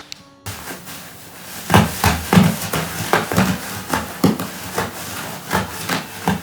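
A quick, irregular run of about a dozen dull knocks or thumps, roughly three a second, beginning nearly two seconds in.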